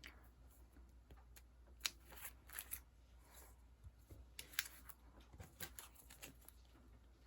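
Sticker sheets being handled: scattered short rustles and crinkles, loudest around two seconds in and again around four and a half seconds in.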